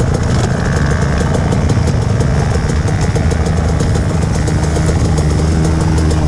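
Trail motorcycle engines running, rough and uneven. About four and a half seconds in, one engine settles into a steady held note.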